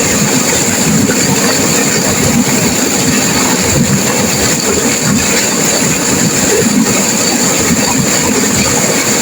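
Turbulent river water rushing and crashing, a loud, steady, unbroken noise.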